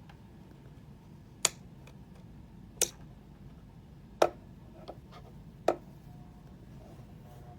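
Four sharp clicks, evenly spaced about a second and a half apart, with a fainter one between the third and fourth, over faint steady background noise.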